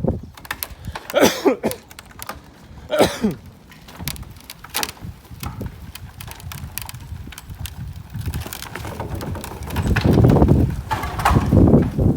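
Demolition work: repeated knocks and clatter of debris, with two short falling creaks about one and three seconds in, and a louder low rumble building near the end.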